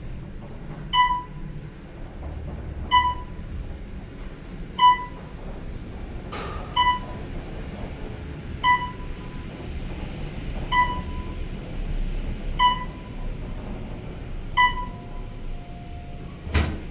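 Elevator's electronic beep, a single pitched ping with a short ringing tail, repeating about every two seconds over a low hum. A sharp click sounds near the end.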